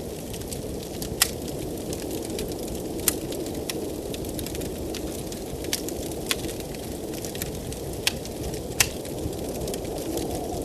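Wood fire crackling in a fireplace, with about seven sharp pops at irregular moments, over the steady low rush of blizzard wind.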